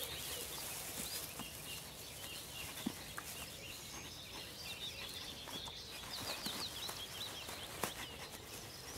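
Faint birdsong: many short high chirping calls over a quiet outdoor background, with a soft click or rustle about three seconds in and another near the end.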